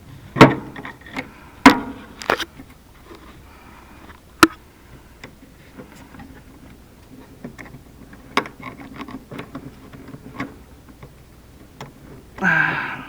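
Hands working the corroded spade connectors off a furnace door safety switch: scattered sharp clicks and knocks of metal and plastic, with a low rustle of handling between them. There is a short rasping burst near the end.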